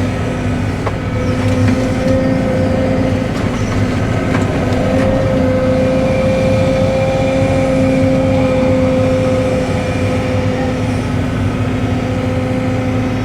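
Cat 313 excavator running at a steady speed, a steady engine hum with a held tone, and a few light knocks in the first five seconds.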